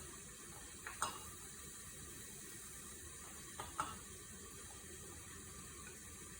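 Faint, steady sizzle of a chicken breast frying in hot oil in a skillet, with a light tap about a second in and two more a little past the middle.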